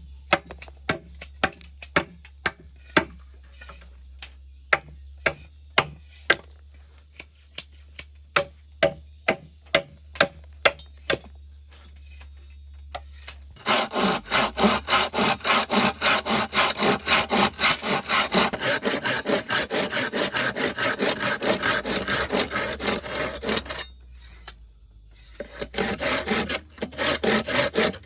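Sharp knocks at irregular spacing, about two a second, then a handsaw cutting through wood in fast, even back-and-forth strokes, pausing briefly near the end before starting again.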